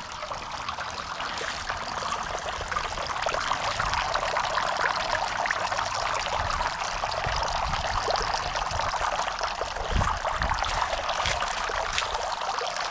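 Garden fountain splashing and trickling steadily, growing louder over the first few seconds. A soft low knock about ten seconds in.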